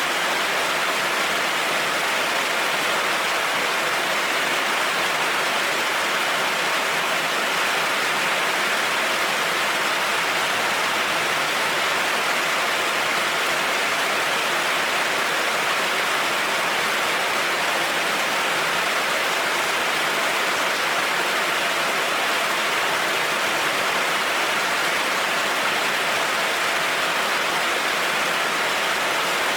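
Heavy rain falling steadily on a road, an even, unbroken hiss with no thunder.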